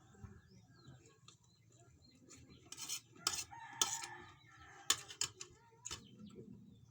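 A rooster crowing about four seconds in, over several sharp clicks and clinks of eating from a plate.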